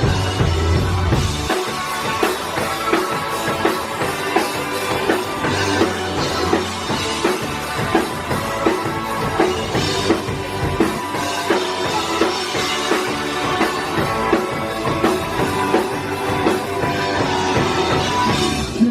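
Live rock band playing an instrumental passage with a driving drum kit and electric guitar, with no singing.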